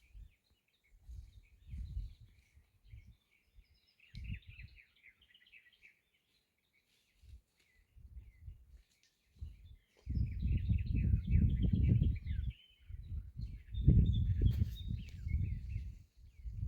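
Small birds twittering in quick runs of chirps, over gusts of wind buffeting the microphone that come and go. The wind is loudest in two long stretches in the second half.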